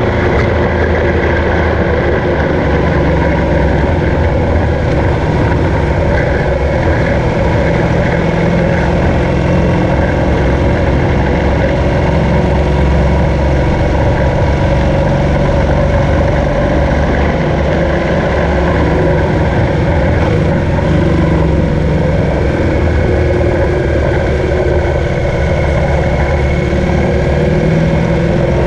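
BMW R1200GS boxer-twin engine running steadily under way, its note rising and falling a little, mixed with wind rush on the microphone.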